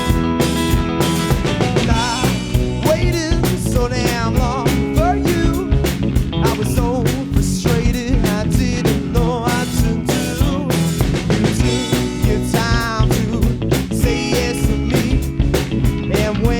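A rock band playing live: a drum kit keeping a steady beat under guitars, with a wavering melody line over the top from about two seconds in.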